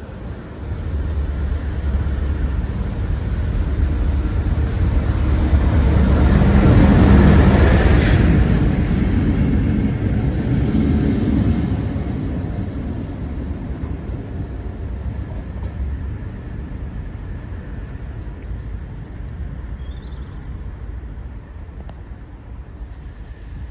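A train passing at speed: the rumble builds from about a second in, is loudest about seven or eight seconds in, then fades away as the train recedes.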